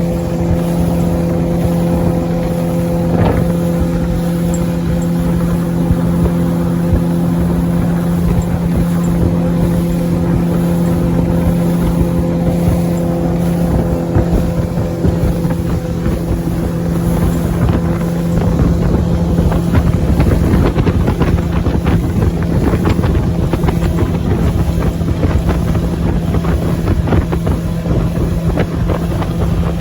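Motorboat engine running steadily under way, with wind buffeting the microphone. About fifteen seconds in, some of its higher tones drop out and the rush of wind and water grows louder.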